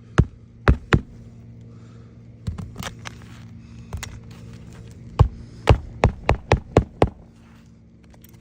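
Hammer driving roofing nails through an asphalt shingle: a few sharp blows, some lighter taps, then a quick run of about seven strikes. A steady low hum runs underneath.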